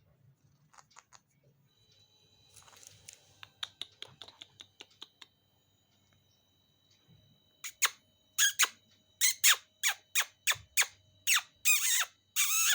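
Faint clicking and rustling, then from a little past halfway an Indian ringneck parrot screeching: a run of about a dozen short, loud, shrill calls, roughly two a second, each falling in pitch.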